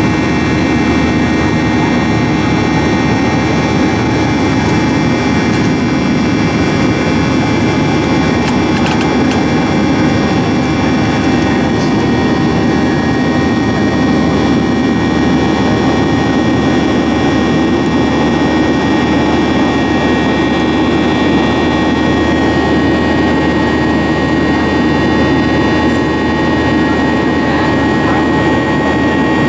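Boeing 737-800's CFM56 jet engines running at steady power: a continuous drone with several steady high whining tones over it.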